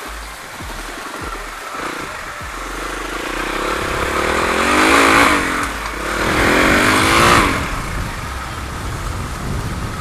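Dirt bike engine revving hard twice, about four seconds in and again about six seconds in, over a steady lower running sound.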